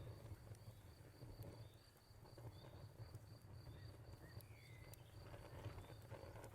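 Faint crickets chirping in a fast, even pulsing trill over a crackling fire with occasional sharp pops and a low rumble. A short bird call sounds about four and a half seconds in.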